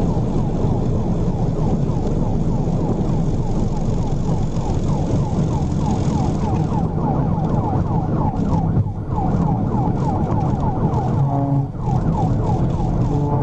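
Police patrol car siren on a rapid, repeating yelp during a high-speed pursuit, over steady engine and road noise; about 11 seconds in, and again near the end, it briefly switches to steady held tones.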